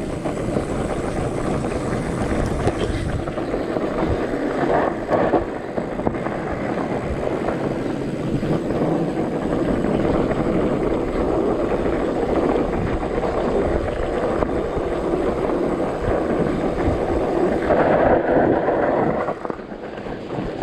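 Mountain bike rolling fast down a dirt trail: steady wind rush on the action-camera microphone mixed with tyre noise, louder for a moment about five seconds in and again near the end.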